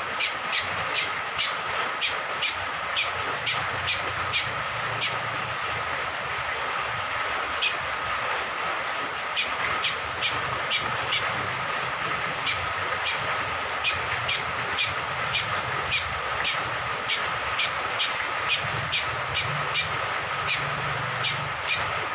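Cucak kombok (kecial kombok), a honeyeater, giving short sharp chirps about two a second, with a few seconds' lull about a third of the way in, over a steady hiss of rain water.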